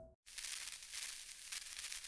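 The tail of the music cuts off into a moment of dead silence just after the start. Then comes a faint, steady, high-pitched hiss with a light crinkling rustle.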